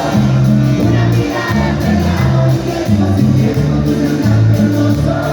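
Live band playing an instrumental passage of the song with no vocals, its bass line moving in a steady rhythm of held notes.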